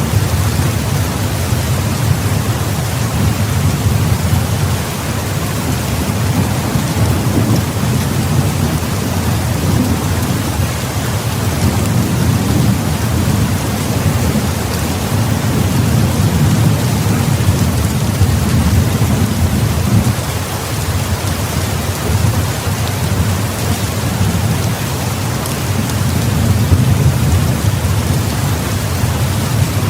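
Steady heavy rain with a deep rumble of thunder underneath that swells and eases in slow waves.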